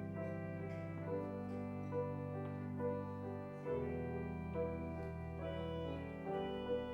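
Slow instrumental keyboard music: a melody of single notes about one a second over held bass notes that change about every three seconds.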